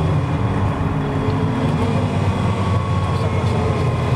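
Ferrari 328's 3.2-litre V8 running at track speed, heard from inside the cabin. The engine note drones steadily, its pitch dipping slightly and rising again.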